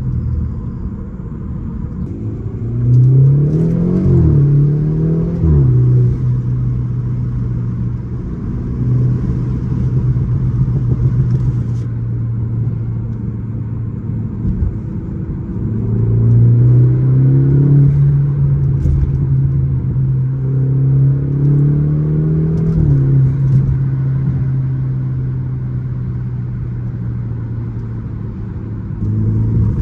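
Tuned BMW 330i's turbocharged 2.0-litre four-cylinder engine under way. Its hum rises in pitch while accelerating about three seconds in and drops sharply at two quick upshifts, then holds steady at cruise. A slower rise in the second half ends in another drop near the three-quarter mark.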